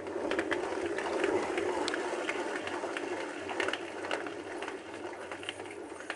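Hotpoint Aquarius WMA33 washing machine drum turning on worn-out drum bearings, a rough rumbling grind full of clicks and rattles, swelling about a second in and then slowly dying away as the drum coasts down. The grinding is the sign of failed drum bearings.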